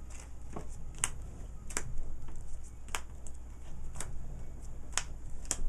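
Sharp clicks of trading cards being set or snapped down on the table, about one a second.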